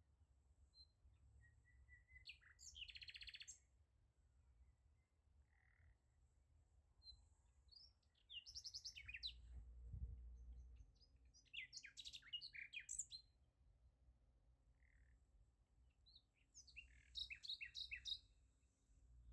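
Faint bird chirping in four short bouts of quick, high trilled notes, over a low steady hum.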